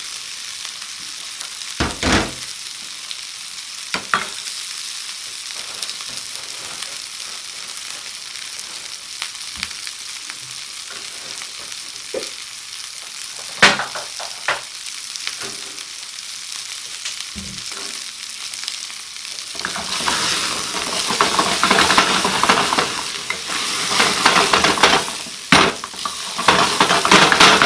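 Leftover meat curry sizzling in a non-stick frying pan as the meat heats and releases its oil, with a metal spoon now and then clinking against the pan. From about twenty seconds in, the sizzling grows louder and busier as the curry is stirred.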